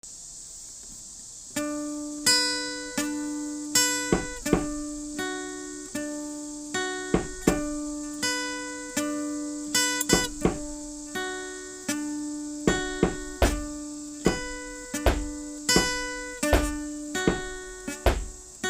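Acoustic guitar picked note by note in a repeating pattern, each note sharp and then fading, starting about a second and a half in. A steady hiss sits under it.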